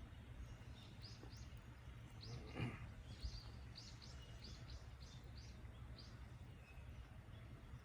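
A small bird chirping, about a dozen short high calls in quick groups, over a low steady background rumble. One short louder sound comes about two and a half seconds in.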